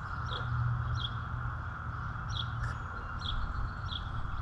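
A bird chirping over and over, one short high chirp about every second, over a steady low background rumble.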